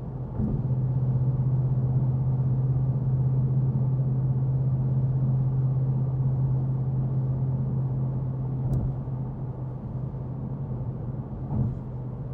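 Ford 5.0 L Coyote V8 of a Mustang GT cruising steadily in sixth gear just under 2000 rpm, a constant low exhaust drone. It gets louder about half a second in and eases off a little in the last few seconds.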